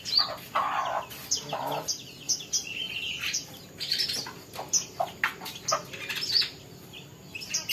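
Small songbird, a kolibri ninja (olive-backed sunbird), chirping and twittering in quick high notes and short trills, with a couple of brief rustles in the first two seconds.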